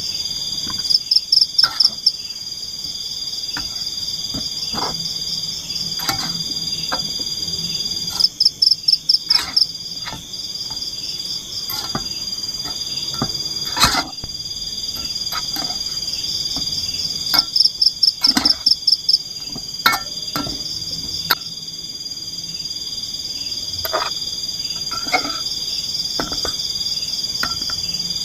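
Night forest chorus of insects and frogs: a steady high shrill trill throughout, with a loud call of about eight rapid pulses recurring roughly every eight to nine seconds. Scattered short clicks and knocks sound now and then.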